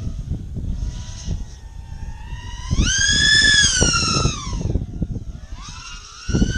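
A drone's electric motors and propellers whining with the throttle. About three seconds in the pitch climbs steeply to a loud, high whine, holds for about a second and a half, then falls away, and it climbs again near the end.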